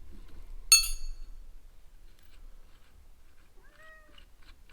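A metal tool strikes metal once, sharp and ringing briefly, about a second in. Near the end, a cat meows once, short and faint.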